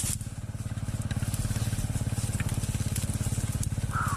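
Dirt bike engine running at low revs with an even, rapid firing beat. A brief high chirp comes near the end.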